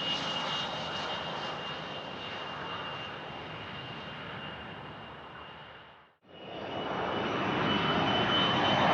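Business jet engines: a steady rushing sound with a thin high whine. It fades out to nothing about six seconds in, then jet noise rises again and grows louder.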